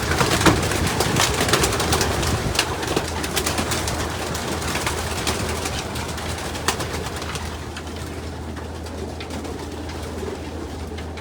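A loft full of racing pigeons cooing, with a flurry of wingbeats and scuffling in the first half as a bird is caught, thinning out over the last few seconds.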